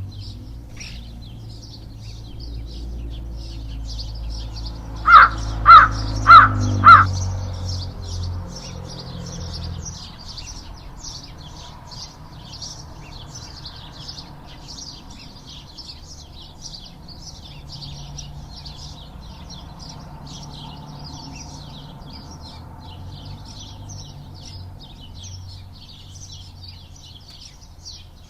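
Birds chirping steadily, with one louder bird calling four times in quick succession about five to seven seconds in. A low rumble sits underneath for the first ten seconds or so.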